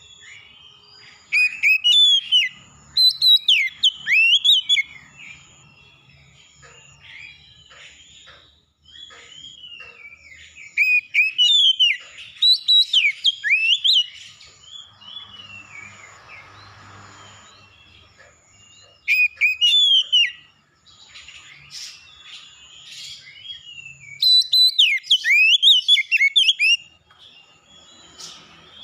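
Songbird singing in four loud bursts of rapid, varied whistled phrases, with a faint high peep repeating steadily behind them.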